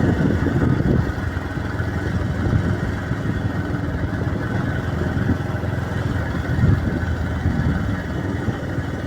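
Bajaj Pulsar motorcycle running steadily while being ridden.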